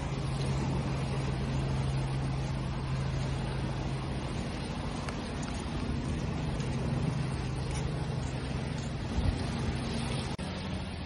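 Ocean waves washing in a steady rush, with a low steady hum underneath.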